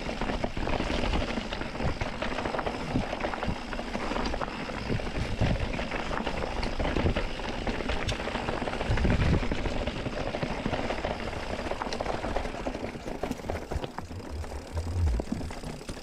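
Mountain bike rolling over rough, rocky singletrack: a continuous clatter of tyres on dirt and rock, with many small knocks and rattles from the bike.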